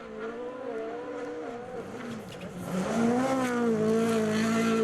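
Rally car engine under hard driving, its note wavering up and down with the throttle, then climbing about halfway in and holding high and louder.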